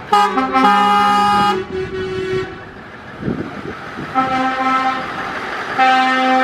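Truck air horns sounding in a series of blasts, several tones at once like a chord: a loud blast of about a second and a half at the start, shorter toots around two and four seconds in, and another loud blast near the end.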